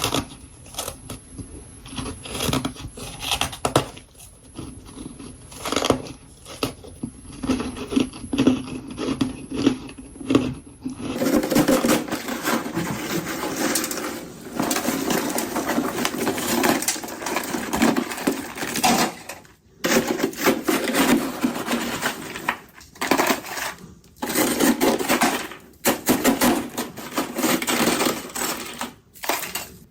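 Close-miked bites and chewing of powdery freezer frost: dense crackling crunches one after another, with short pauses between bites.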